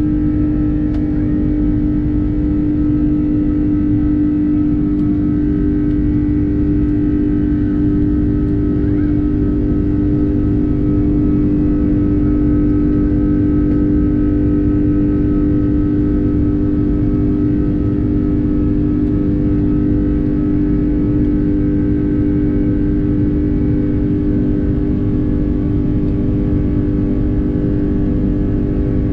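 Airbus A330's Rolls-Royce Trent 700 jet engines at high thrust, heard from inside the cabin: a loud steady drone with a strong hum over a heavy low rumble, typical of the takeoff run and climb.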